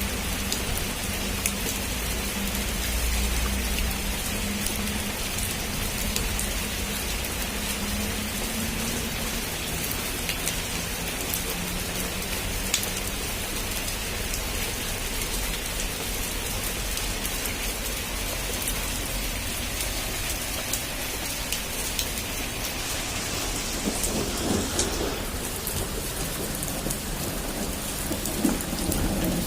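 Heavy rain pattering steadily on a rooftop, with many separate drops ticking, and low rumbles of thunder underneath.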